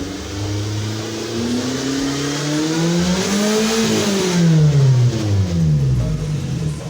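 Suzuki Swift's four-cylinder engine revved through an aftermarket NDK DK 03 V3 muffler, with the stock header and resonator. One long rev climbs steadily for nearly four seconds, then drops back down toward idle.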